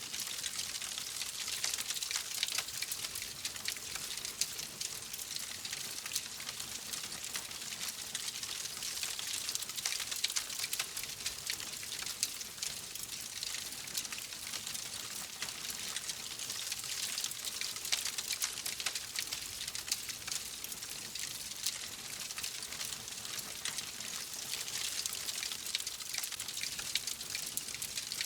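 Wood fire crackling in a fireplace: a steady hiss of flame thick with small, rapid pops and snaps.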